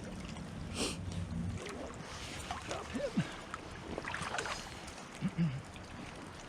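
Steady rushing outdoor noise of river water and wind, with a few faint distant voices.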